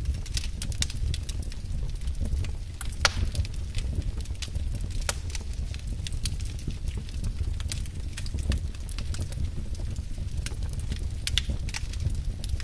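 Wood fire crackling in a fireplace: irregular sharp pops and snaps over a low, steady rumble of flames, with one louder pop about three seconds in.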